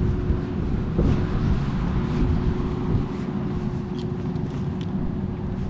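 Steady low outdoor rumble with a faint continuous hum and a few faint ticks.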